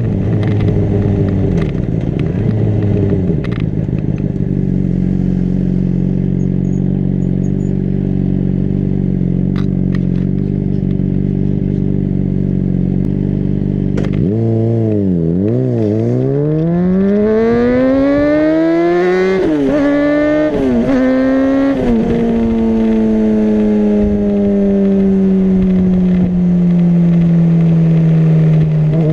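Honda CBR600RR's inline-four engine running steadily at low revs, then about halfway through dipping and revving up hard as the bike accelerates, with three quick upshifts, each a sudden drop in pitch. After the last shift the engine note falls slowly as the throttle is eased.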